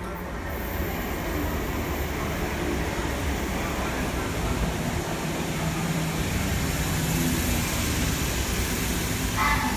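Class 317 electric multiple unit running alongside the platform: a steady rumble of wheels on rail with the hiss of the train's running gear.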